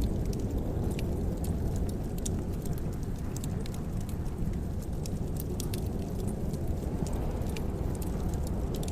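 Wood fire in a fireplace crackling: a steady low rumble of flames with irregular sharp pops and snaps.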